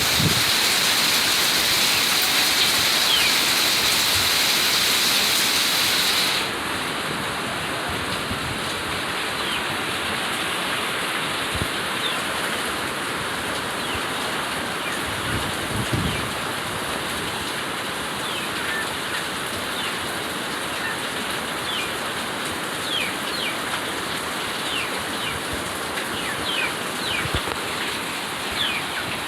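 Steady rain falling in the countryside, its hiss changing character about six seconds in. Short, high, downward bird chirps join in, growing more frequent near the end, with a few dull drips or thumps.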